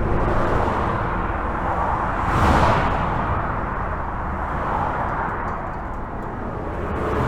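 Highway traffic heard from under a bridge: a steady hiss of tyres and engines with low rumble. One vehicle passes close about two and a half seconds in, swelling and fading.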